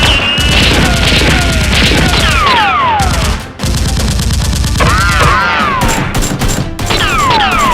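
Rapid gunfire sound effects, dense and continuous, with several falling whistling tones among the shots and a brief drop about halfway through, over background music.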